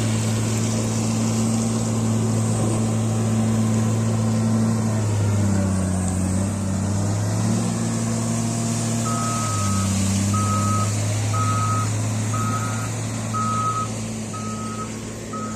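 Heavy diesel construction vehicle running, its engine note dipping briefly twice, then its reversing alarm beeping about once a second from the middle on as it backs up.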